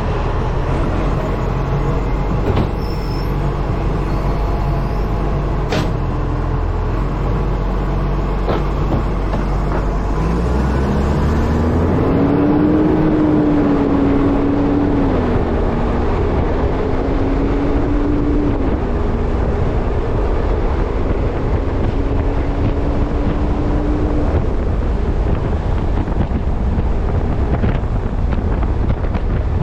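Wind buffeting a camera mounted on the front of an Acco truck, over the truck's diesel engine. About a third of the way in the engine note rises, dips twice and climbs again as the truck accelerates through the gears.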